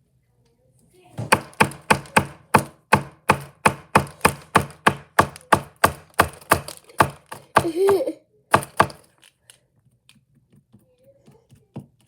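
A run of about twenty sharp, evenly spaced knocks or slaps, close to three a second, stopping about nine seconds in.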